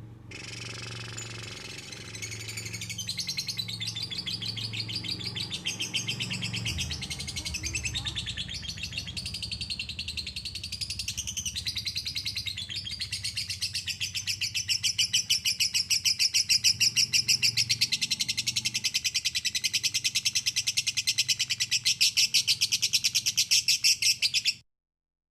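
A songbird singing a long, continuous song of very rapid, high-pitched repeated notes. It grows louder about halfway through and cuts off suddenly near the end.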